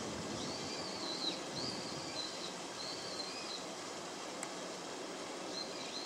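A bird giving high, thin, wavering calls, four short phrases in the first three and a half seconds and another near the end, over a steady outdoor background hiss.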